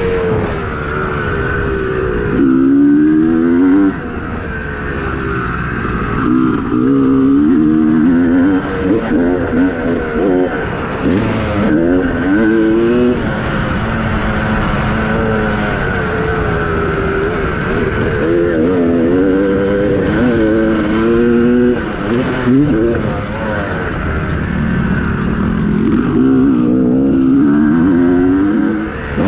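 Yamaha YZ250 two-stroke dirt bike engine being ridden hard, revving up and falling back over and over as the throttle is worked and gears change, with brief drops in loudness between the runs.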